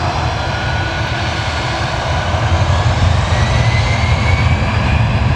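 Airliner engines running loud, a deep rumble with a thin whine that slowly rises in pitch, growing louder in the second half.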